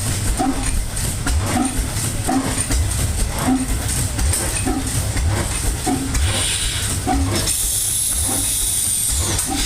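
Evans Manufacturing Company stationary engine running, with a low chug about once a second. A loud hiss joins in about six seconds in, growing stronger about a second later and stopping just before the end.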